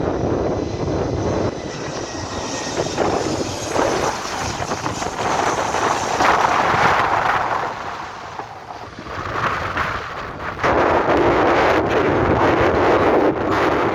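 Boeing 737 jet engines, with a faint whine heard through heavy wind buffeting on the microphone. The noise steps up sharply about ten seconds in.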